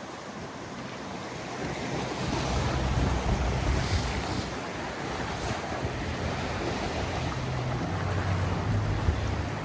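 Seaside ambience: small Mediterranean waves washing on the beach, with wind buffeting the microphone as a low rumble that grows stronger about two seconds in.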